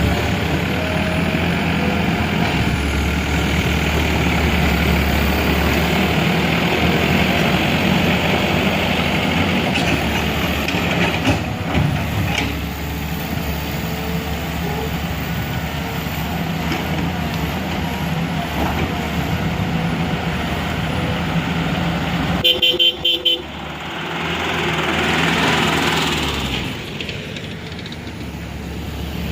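Vehicle engines running steadily, with a rapid string of short horn toots about three-quarters of the way through.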